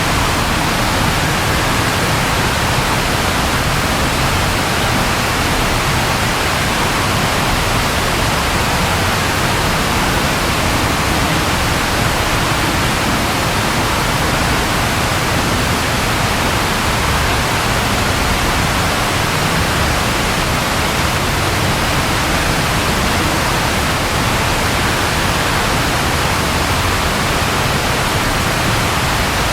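Steady, even rain, a dense hiss that keeps the same loudness throughout with no separate drops or claps standing out.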